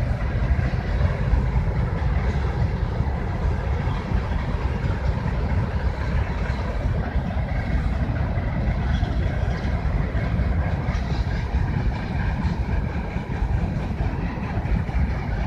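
CSX freight train giving off a steady low rumble, even throughout with no breaks or horn.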